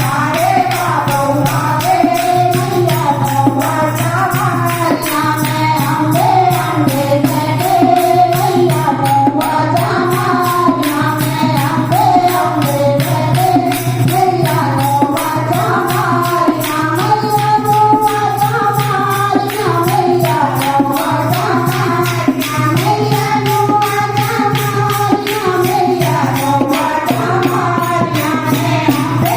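Devotional kirtan: voices singing a Hindi-Punjabi bhajan to Goddess Ambe over a steady hand-percussion beat with tambourine-like jingles.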